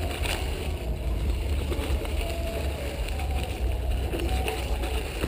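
Mountain bike in motion: a steady low wind rumble on the microphone over the noise of tyres and a rattling bike, with a few faint clicks.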